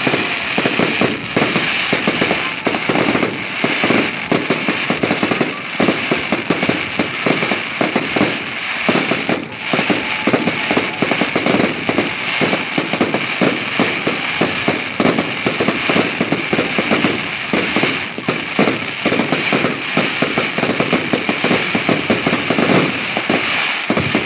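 Fireworks display going off: rapid, continuous bangs and crackling of shells bursting in the sky, with no let-up.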